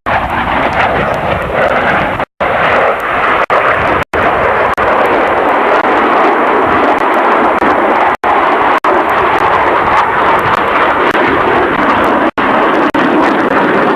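Loud, steady jet engine noise from an aircraft in flight, with the sound briefly cutting out several times.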